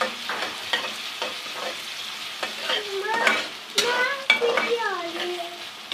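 Chopped onions frying and sizzling in hot ghee while a spoon stirs them, scraping and clicking against the pan. The louder clicks come a little before halfway. A few brief gliding squeaky tones sound in the second half.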